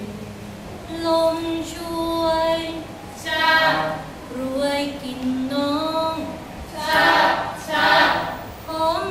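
Female voices singing a Thai kap he ruea royal barge chant in its slow lament style, with long held notes that slide from one pitch to the next over several phrases.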